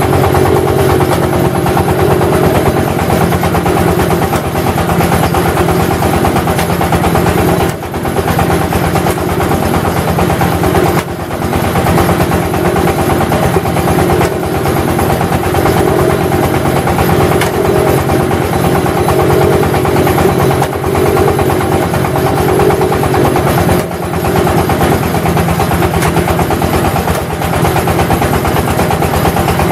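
Engine of a clay brick press machine running steadily under load, with a fast, even beat. The level dips briefly a few times.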